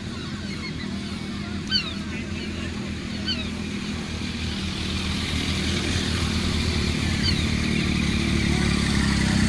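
Motorcycle engines running steadily and growing louder over the second half, with a few short high calls above them.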